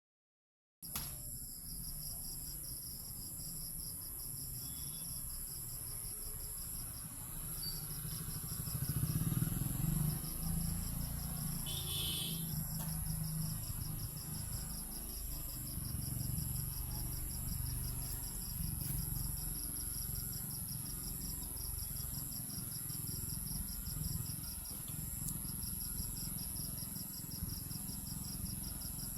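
Crickets and other insects chirping steadily: a continuous high-pitched buzz with a fast pulsing trill beneath it that pauses briefly now and then. A low rumble runs underneath, and a short higher call stands out about twelve seconds in.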